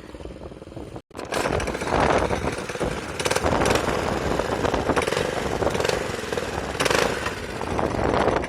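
Small single-cylinder mini bike engine running hard as the bike is ridden, with a rapid, rattly buzz. The sound cuts out for an instant about a second in.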